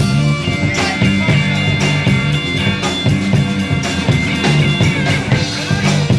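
Rock band playing: electric guitar holding a sustained lead line over bass and a steady drum beat.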